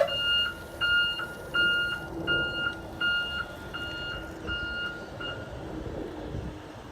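Reversing alarm of an electric school bus beeping in a steady on-off rhythm, about one and a half beeps a second, fading out about five seconds in.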